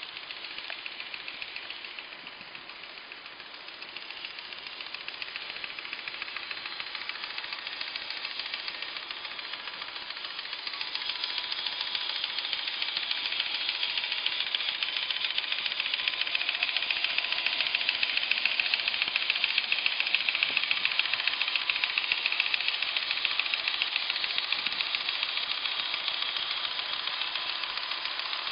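G-scale model train running along its track: a steady, fast rattling clatter of motor gearing and wheels with a faint whine, growing louder from a few seconds in as it comes closer and easing a little near the end.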